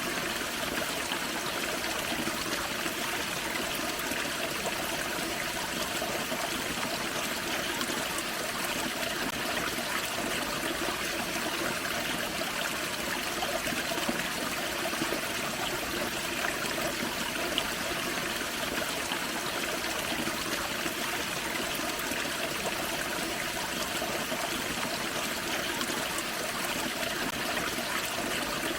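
Small forest creek and waterfall: water splashing and trickling over rocks in a steady, unbroken rush.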